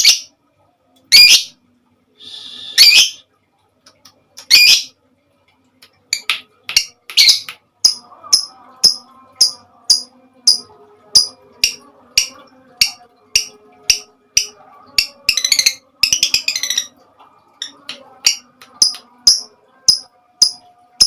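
A songbird calling loudly in sharp, high notes: a few strong separate calls at first, then quick chirps repeated about twice a second, with a brief rapid run of notes about sixteen seconds in.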